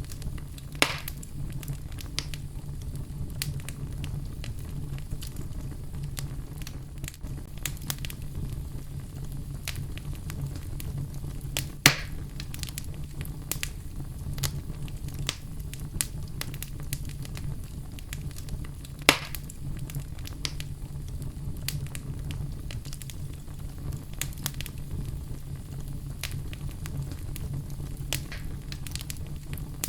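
Wood fire crackling in a fireplace: a steady low rumble of burning with frequent small snaps and three louder pops, about a second in, about twelve seconds in and near nineteen seconds.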